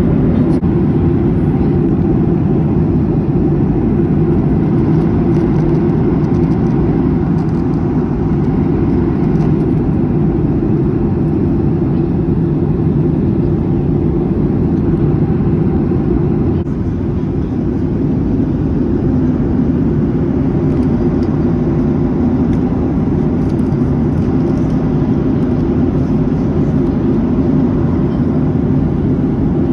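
Steady rumble of a jet airliner heard from inside the passenger cabin: engine and airflow noise with no breaks, easing slightly about 17 seconds in.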